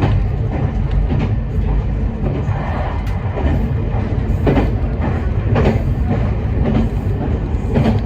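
Meitetsu 5000 series electric train running along the track, a steady low rumble with a thump from the wheels crossing rail joints every second or so.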